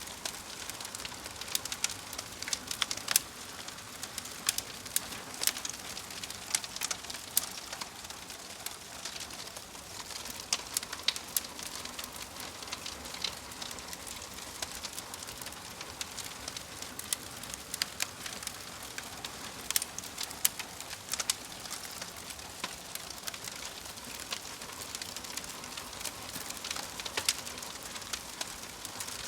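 Campfire crackling: a steady hiss with frequent sharp, irregular pops and snaps.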